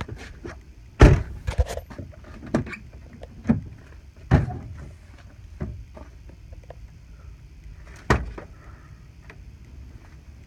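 A junked vehicle's door and body being handled: a series of sharp metal clunks and knocks, the loudest about a second in and another near the end.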